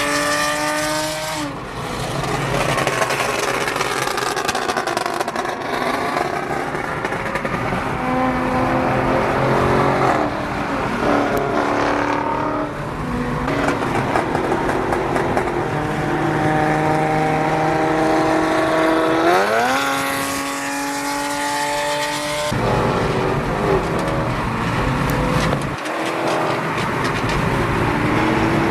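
Car engines revving and accelerating, their pitch climbing and dropping several times, with one strong rising rev about two-thirds of the way through that cuts off suddenly, over a steady din of traffic.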